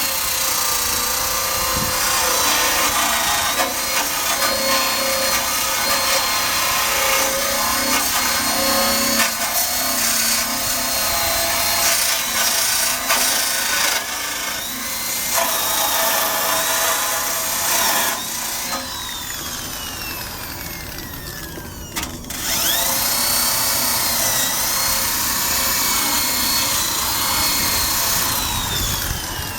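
Electric drill with a wire brush attachment scrubbing rust off a Honda Cub's metal undercarriage, the motor whine shifting in pitch under load over a scraping hiss. About two-thirds of the way in the drill winds down, there is a click, and it spins back up and carries on brushing.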